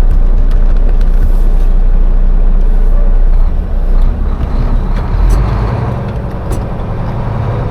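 Heavy truck's diesel engine running, a deep rumble that eases off about halfway through into a steadier low hum.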